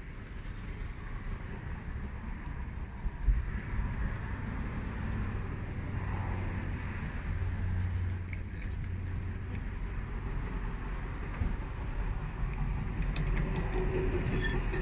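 A steady low vehicle rumble with crickets chirping in high, broken trills over it, and a few light metallic clicks near the end.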